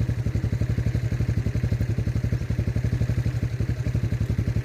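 Small engine running steadily at a low idle, an even rapid chugging of about a dozen beats a second.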